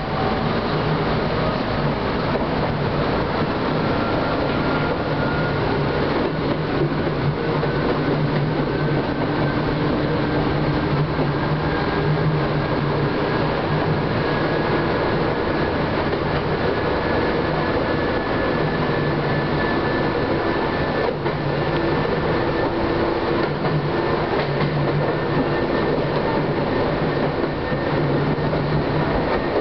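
Chichibu Railway electric train running on the main line, heard from inside the front car: a steady rumble of wheels on rail with a faint whine that climbs slowly in pitch as the train gathers speed.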